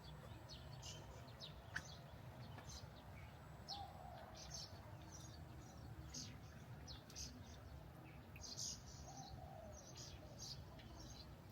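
Small birds chirping, many short high calls scattered irregularly throughout, over a faint steady low rumble.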